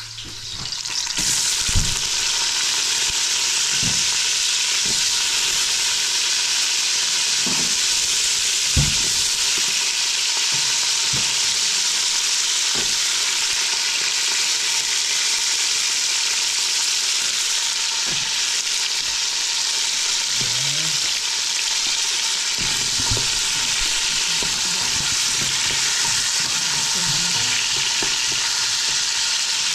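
Food frying in hot oil with a steady sizzle that swells up about a second in and holds, with a few short knocks along the way.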